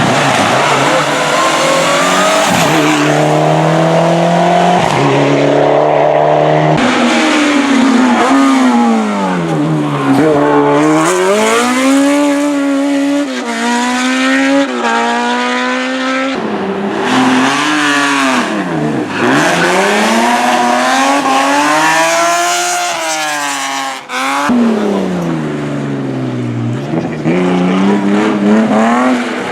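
Race-car engine at high revs on a hill climb, pitch climbing steeply through the gears and falling away each time it slows and downshifts, over and over. The sound breaks off sharply several times and comes back at a new pitch.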